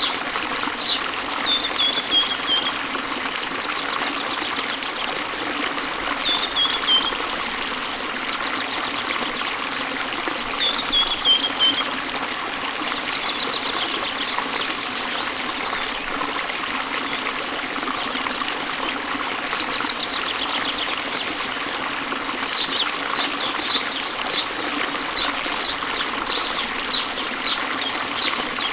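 A waterfall runs steadily, with birds singing over it. A short, falling call comes three times in the first half, and a run of quick, high chirps comes near the end, about two a second.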